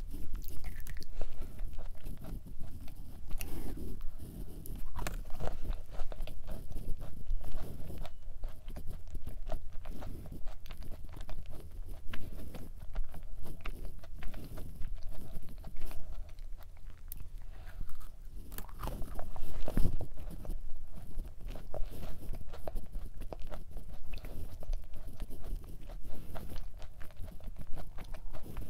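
A person chewing a thick chocolate chip cookie close to the microphone, with small crunching and biting sounds throughout. There is a louder crunch around twenty seconds in.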